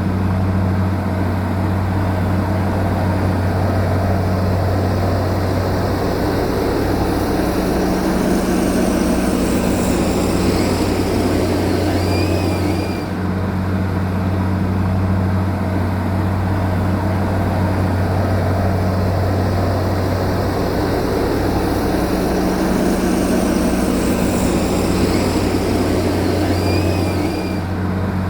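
Heavy diesel machinery engine running with a steady, continuous drone. The same stretch of sound repeats about every fifteen seconds.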